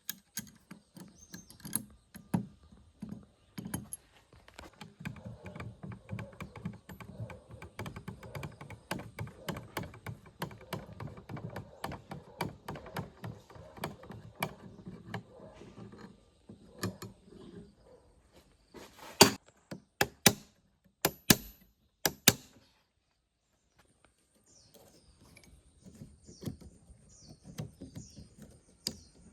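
Hand work on metal machine parts: a long run of clicks, scrapes and knocks. About twenty seconds in come several sharp, loud knocks. After a brief silence, short high chirps are heard near the end.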